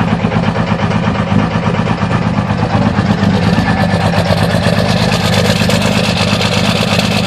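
2003 Cummins 5.9-litre inline-six turbodiesel idling steadily with a rapid, even clatter, shortly after a cold start at -25 with no block heater plugged in.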